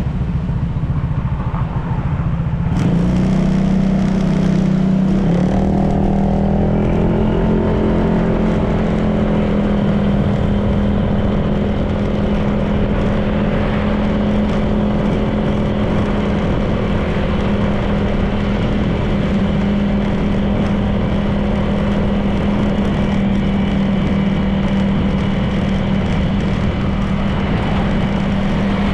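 Honda PCX 160 scooter's single-cylinder engine on the road, with a rising pitch as it picks up speed during the first several seconds, then running at a steady pitch while cruising.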